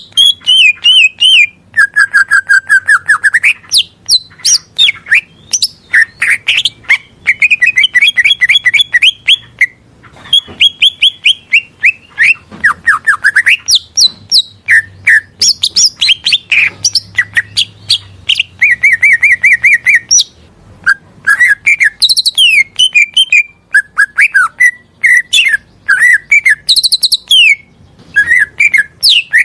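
Green leafbird (cucak ijo) singing a fast, varied song: rapid runs of repeated chirps, trills and sweeping whistles, phrase after phrase with only short pauses between them.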